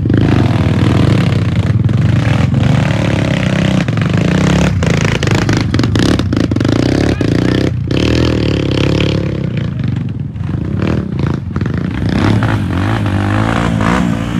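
Trail motorcycle engine running and revving as the bike is ridden, its pitch repeatedly rising and falling with the throttle.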